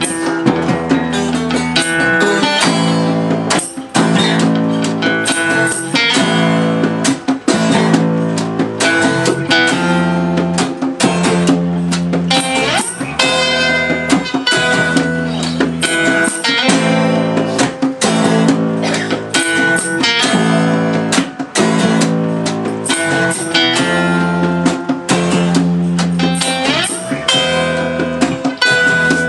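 Live band playing an instrumental passage with guitar to the fore, sustained chords over a steady strummed rhythm.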